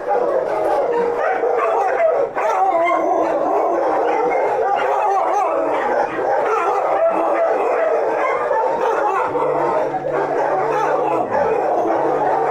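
A chorus of many kennelled shelter dogs barking, yipping and howling at once, without a break. A faint low steady hum comes in about nine seconds in.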